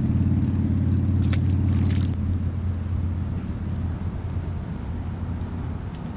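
A motor vehicle engine rumbling steadily, dropping off about two seconds in and fading as it moves away. A faint high chirp repeats a few times a second over the first few seconds.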